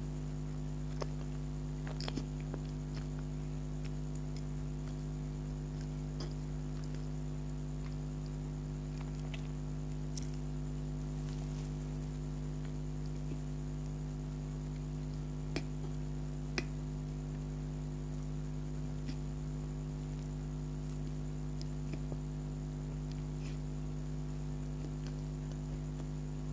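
Soft eating sounds of someone chewing donut: a few sparse wet mouth clicks and squishes over a steady low electrical hum.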